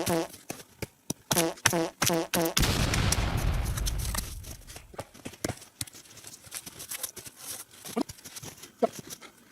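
Footsteps squeaking and crunching in frozen snow, about two steps a second. About two and a half seconds in, a heavy rustling crash lasts over a second, like spruce boughs or a pole being dragged or dropped into the snow. Scattered sharp cracks and snaps of wood follow.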